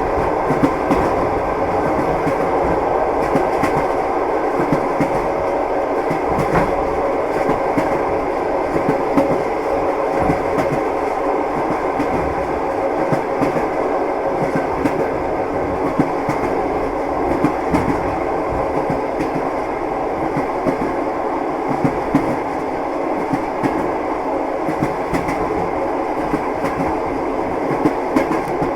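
Wheels of a moving train clattering over rail joints, a steady rumble with irregular clicks.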